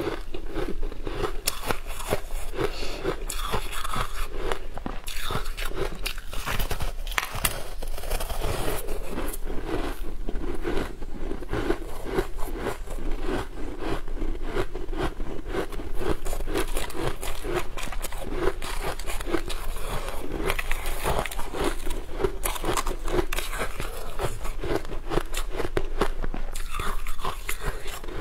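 Close-miked chewing of a crunchy food: dense, irregular crunching and crackling throughout, with bites breaking through.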